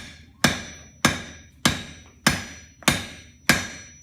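Blacksmith's hammer striking a hot steel bar on an anvil in a steady rhythm, about six blows in four seconds, each ringing and fading before the next. The hammer's rounded face is upsetting (jumping up) the bar's end into a ball.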